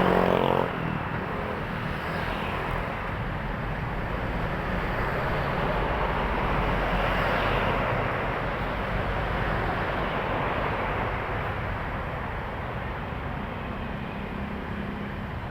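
Highway traffic with trucks going by: engine and tyre noise swelling and fading as vehicles pass one after another. A loud engine passing close dies away within the first second.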